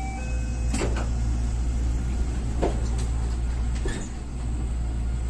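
JR West 125-series electric railcar running, heard from the cab: a steady low rumble, with sharp knocks about a second in, near three seconds and near four seconds in.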